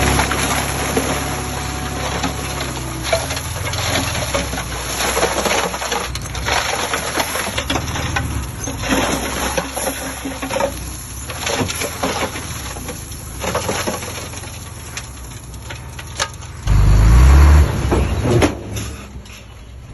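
Heavy earthmoving machinery working, with its diesel engine running under many irregular knocks and rattles. The engine surges loudly and briefly about seventeen seconds in, its pitch rising.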